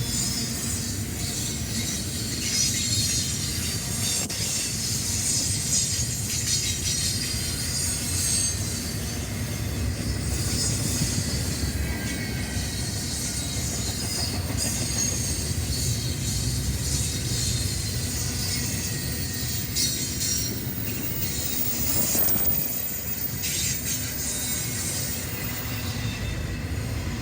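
A train rolling past with a steady low rumble, high metallic squeal from its wheels on the rails, and clicks of wheels over rail joints.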